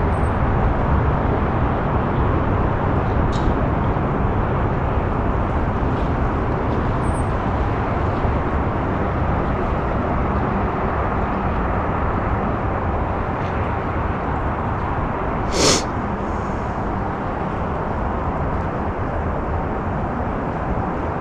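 Steady outdoor rushing noise, with a sharp click about sixteen seconds in.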